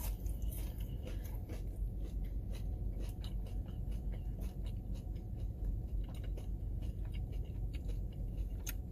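A person chewing a bite of hash brown: many small, irregular mouth clicks and crunches over a steady low hum.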